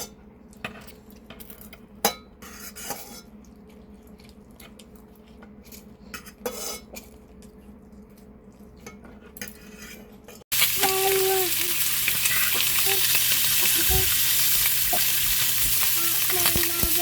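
Light clicks and taps of cutlery and dishes as food is eaten; then, after an abrupt cut about ten seconds in, a loud steady hiss with a few brief higher-pitched sounds over it.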